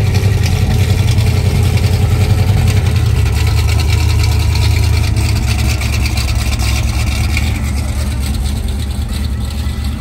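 Pontiac Trans Am's V8 engine running at idle, a steady pulsing low exhaust rumble that eases slightly about halfway through.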